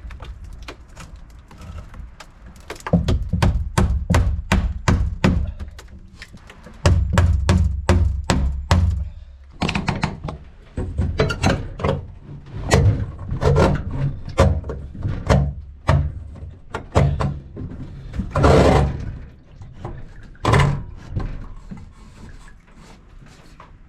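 Irregular series of knocks and thuds, several a second at times, with a short loud rushing noise about three-quarters of the way through.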